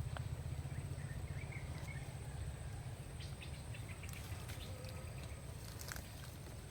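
Outdoor ambience: a steady low rumble under a thin, steady high insect drone, with a few faint clicks and taps in the second half.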